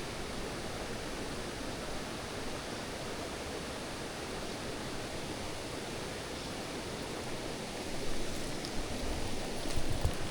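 Mountain stream water rushing steadily over rocks, an even hiss with no pauses. A few louder low bumps come near the end.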